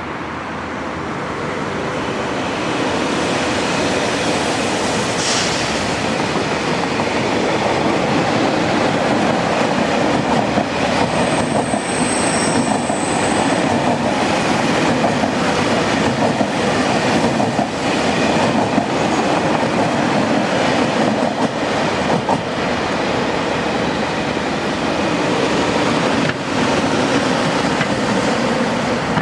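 TGV Duplex double-deck high-speed train passing close by, its wheels rolling steadily on the rails with clicks over the rail joints. The sound builds over the first few seconds, and there is a brief high wheel squeal about twelve seconds in.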